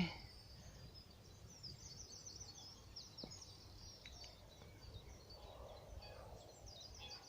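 Small songbirds singing faintly in a tree: quick runs of short high chirps and trills, one burst about two seconds in and another near the end, over a low steady background rumble.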